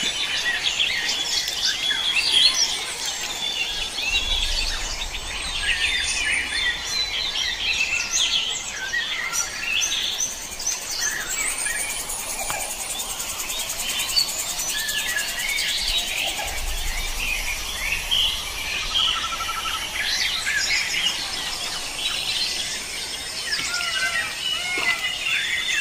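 Many birds chirping and calling over one another in a busy, continuous chorus, with insects faintly in the background.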